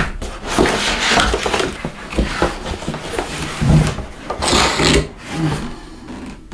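Packaging being handled and unpacked from a box: irregular rustling and scraping, with a few soft knocks.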